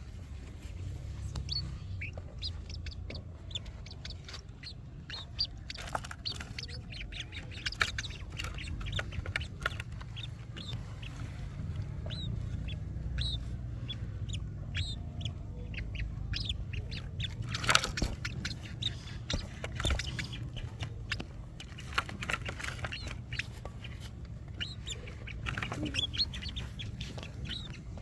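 Birds chirping and clucking, with many short chirps and clicks scattered throughout over a steady low rumble, and a sharper, louder click about two-thirds of the way in.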